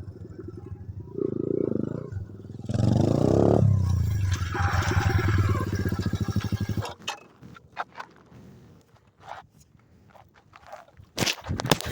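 Coolster 125 pit bike's single-cylinder engine running, with a sharp rev rising and falling about three seconds in, then running steadily until the sound stops abruptly about seven seconds in. Scattered clicks and knocks follow, with a louder rustling burst near the end.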